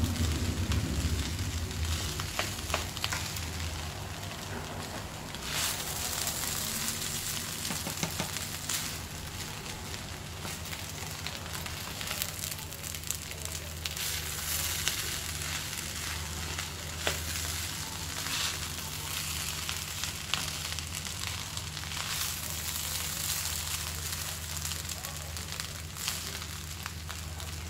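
Fried rice sizzling in a hot frying pan as it is stirred and turned with a spatula, with frequent short scrapes and taps of the spatula against the pan. A steady low hum runs underneath.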